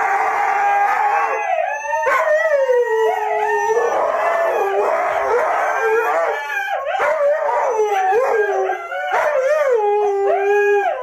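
Dog howling: long wavering howls that rise and fall in pitch, repeated with short breaks, some of them overlapping. A dense, noisy sound fills the first second or so before the howls begin.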